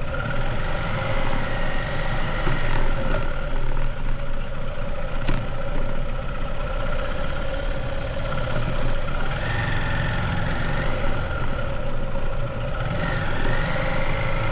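Motorbike engine running as the bike rides slowly along a rough road. The engine note holds steady, with small rises and falls in pitch and one short upward glide near the end.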